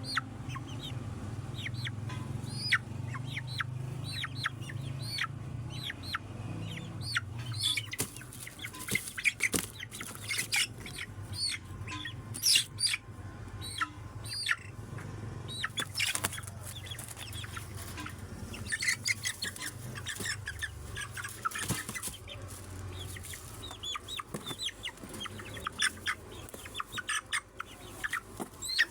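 Chickens clucking and calling: many short, high calls in quick succession, over a low steady hum that fades out about three quarters of the way through.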